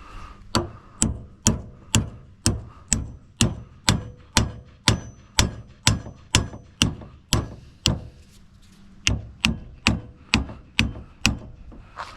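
Hammer blows on metal, about two a second with a faint ring after each, with a brief pause about eight seconds in.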